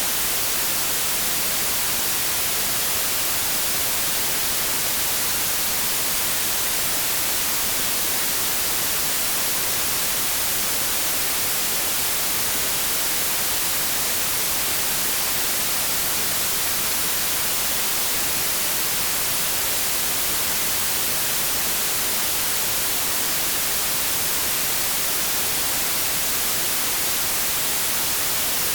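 Continuous white noise: a steady, even hiss, brightest in the treble, with no change in level.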